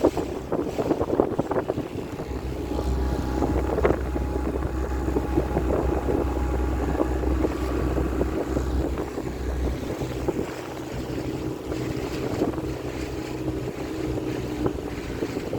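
Hire motorboat's engine running steadily under way, its low hum growing heavier for several seconds in the middle, with wind buffeting the microphone.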